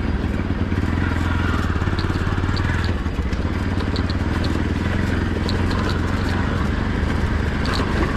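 Motorcycle engine running steadily while riding, with faint small ticks and rattles over it.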